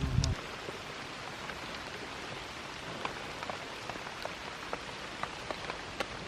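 Steady light rain, with scattered single drops ticking sharply. A low rumble cuts off right at the start.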